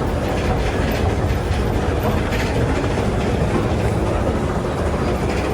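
Airport people-mover train running, a steady rumble.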